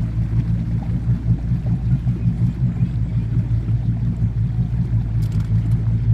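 Boat motor running steadily underway, a low even drone.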